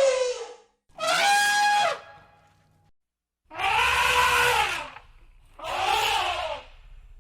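Elephant trumpeting: a series of loud, brassy trunk calls, each about a second long with pitch arching up and down, separated by short gaps. One call ends just after the start, and three more follow.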